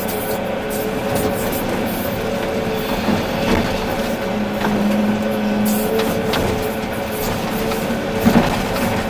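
Volvo EC380D excavator's diesel engine running steadily under working load, with a hydraulic whine held for about a second and a half midway and a few brief knocks of the machine working.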